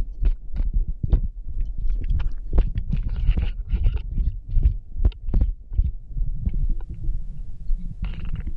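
Wind buffeting the microphone in flight: an uneven low rumble broken by irregular thumps and crackles.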